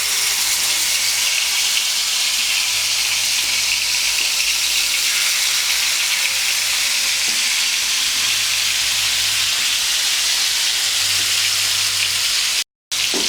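Marinated chicken legs sizzling steadily in hot coconut oil in a frying pan, an even, dense hiss. The sound cuts out for a moment near the end.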